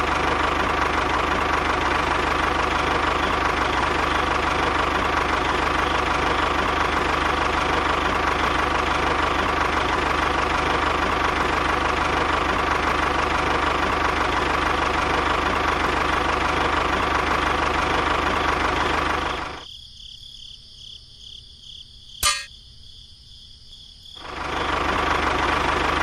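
A tractor engine running steadily with a fast, even chug. It drops away a little under twenty seconds in, leaving a faint hum and a single sharp click, and comes back near the end.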